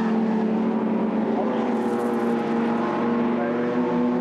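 Racing car engine running at high revs, a steady engine note as cars go past on the circuit.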